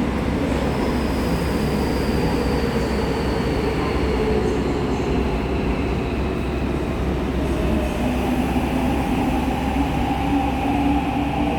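Seoul Subway Line 6 electric train pulling into a station: a steady rumble of wheels on rail, with a high electric whine that slowly falls in pitch as the train slows.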